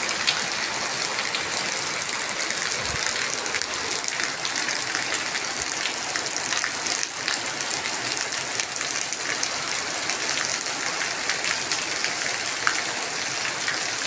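Heavy rain pouring down and splashing onto a wet paved lane: a steady hiss dotted with many small drop impacts.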